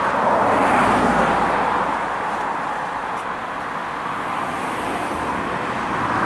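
Road traffic noise from a motor vehicle passing close on a town street, loudest about a second in and then easing to a steady rush.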